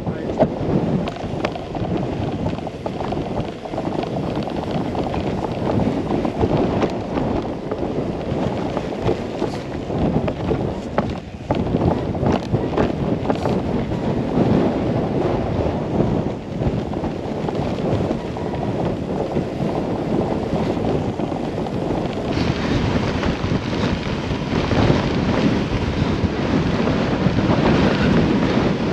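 Strong, gusting wind buffeting the microphone, a dense rush that swells and fades without let-up. It grows stronger and hissier over the last few seconds.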